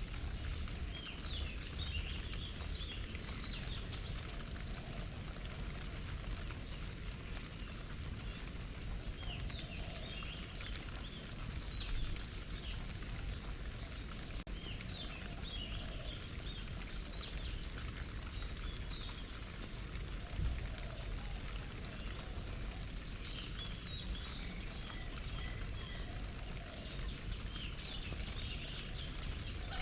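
Small birds splashing in a garden bird bath, with the pattering and trickle of water. Short runs of high bird chirps come every several seconds.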